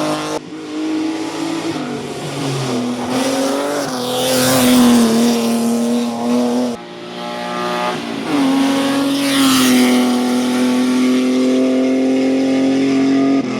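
Race car engines at high revs climbing a hillclimb course. The engine note holds, drops with upshifts and climbs again. The sound breaks off abruptly twice, as if moving to another car.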